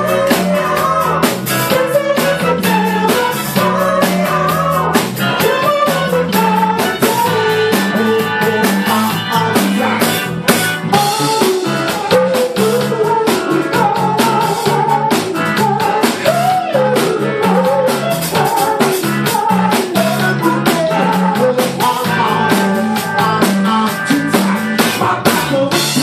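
Live funk band playing: drum kit, bass and guitar with a singer, on a steady beat.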